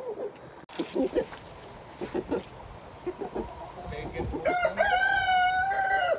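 A rooster crows once, a long, held call starting about two-thirds of the way in, after a few short clucks from the flock.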